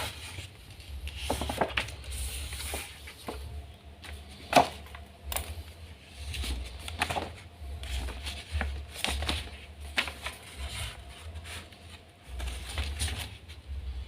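Origami paper being folded and creased by hand: irregular rustles, scrapes and short sharp taps, the sharpest about four and a half seconds in.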